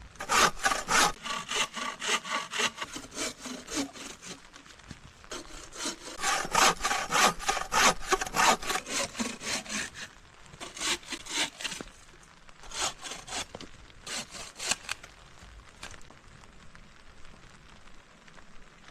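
Hand saw cutting through wood in quick back-and-forth strokes, about four a second. The strokes come in runs that stop and restart several times, then die away over the last few seconds.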